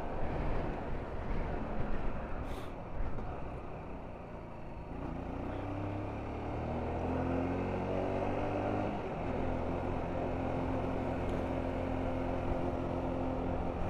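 Motorcycle engine on the move: wind and road noise at first, then the engine note climbs steadily for about four seconds as the bike accelerates, and settles into a steady cruising drone.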